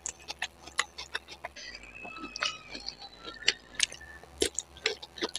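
Close-miked eating of spicy noodles: chewing with a string of sharp wet mouth clicks and smacks, irregular and several a second.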